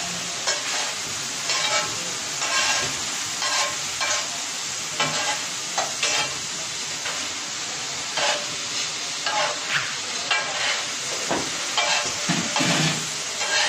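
Boneless chicken and masala frying on a hot tawa griddle: a steady sizzle, with a spatula stirring and scraping across the griddle about once a second.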